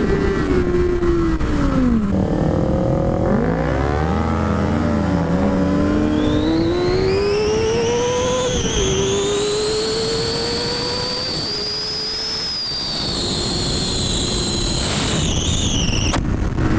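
Sport-bike inline-four engine, a 2006 Honda CBR600RR, under way: the revs drop and waver early on, then climb hard, with the pitch falling back at upshifts about nine and eleven seconds in. A high whine rises and then falls over the middle and later part, over steady wind rush.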